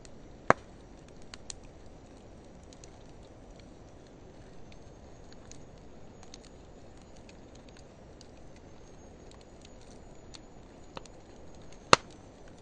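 Driftwood and hardwood firewood burning, with a steady low hiss and scattered small crackles. Two sharp loud pops come about half a second in and near the end, and a faint high whistle is heard through the middle.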